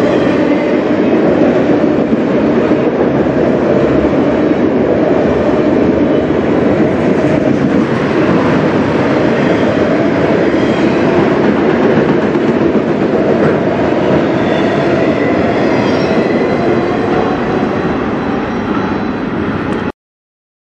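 Autorack freight cars rolling past close by: a loud, steady noise of steel wheels running on rail. It cuts off suddenly near the end.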